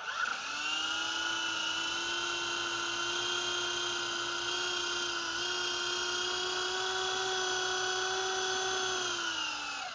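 Electric motors and rotor blades of a small toy RC helicopter spinning up to a steady high whine. The pitch steps up slightly about halfway through, then falls as the rotors are throttled down near the end.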